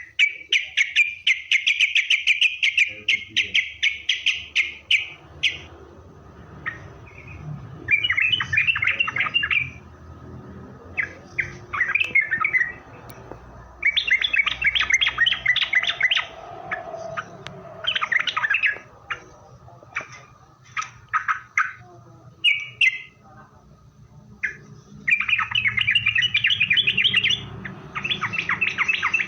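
Yellow-vented bulbul (trucukan) calling: bouts of rapid, chattering notes lasting a few seconds each, with single sharp notes in the gaps between bouts.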